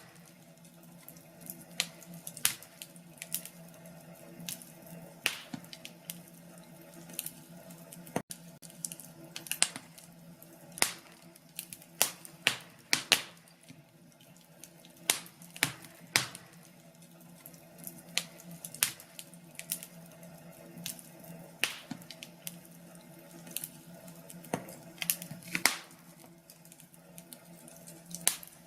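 Wood fire crackling: irregular sharp pops and snaps, roughly one or two a second, over a steady low rush of burning.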